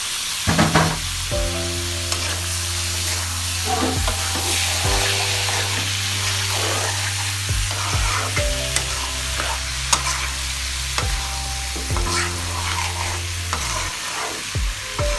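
Shrimp and fresh lima beans sizzling in hot oil and spice paste as a metal spoon stirs them around a metal pan, with occasional clicks and scrapes of the spoon against the pan.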